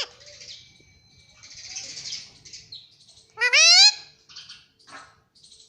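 Ringneck parrot calling: a short falling squeak at the start, then one loud, rising screechy call about three and a half seconds in, with softer chirps after it.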